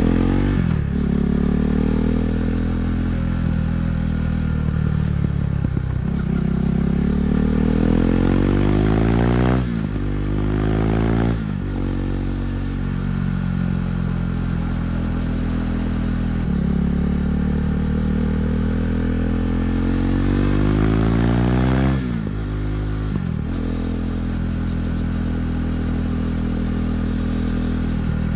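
KTM 390 Duke's single-cylinder engine through an Akrapovic exhaust, under way: the revs rise and fall, climbing before sudden drops about ten and twenty-two seconds in, where gears are changed, with steadier running in between.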